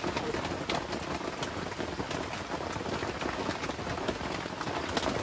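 Steady rain falling, with many close drops striking as sharp ticks.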